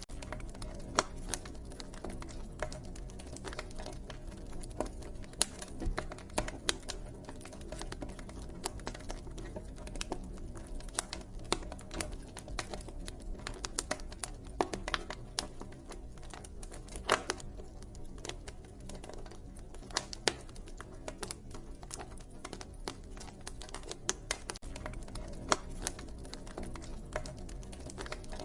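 Wood fire crackling, with irregular sharp pops and snaps over a steady low background.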